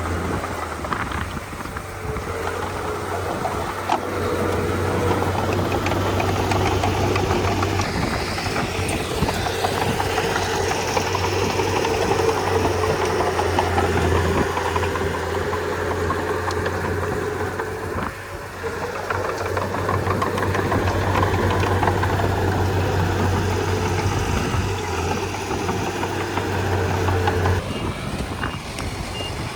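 Bulldozer's diesel engine running steadily, with a steady whine above its low hum and a clattering texture; the low engine note drops away near the end.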